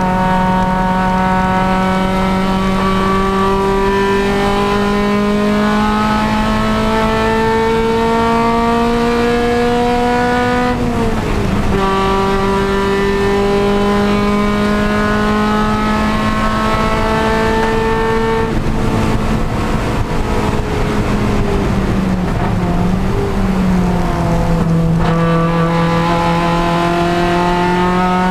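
Honda Civic Si race car engine under hard acceleration, its pitch climbing steadily through long pulls. The pitch drops sharply on an upshift about eleven seconds in. Later it wavers and falls as the driver lifts and downshifts, then climbs again near the end.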